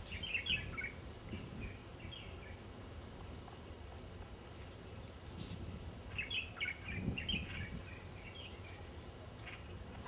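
Small birds chirping in two short flurries, one near the start and another in the second half, with a few scattered calls between, over steady low background noise.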